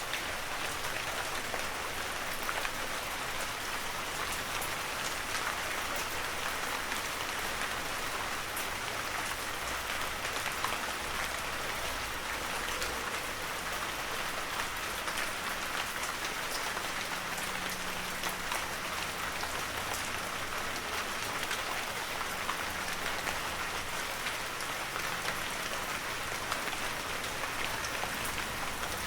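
Heavy rain falling steadily, a dense even hiss of drops with fine ticks of individual drops striking surfaces.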